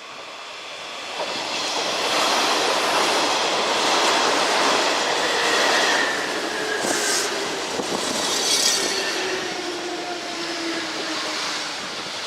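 Kintetsu electric train running through the station, its wheels and running noise swelling about a second in and staying loud, with thin pitched tones that slowly fall in the second half.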